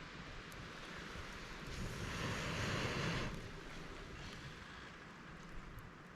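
A steady windy hiss, with a rush of air that swells about two seconds in and dies away about a second and a half later.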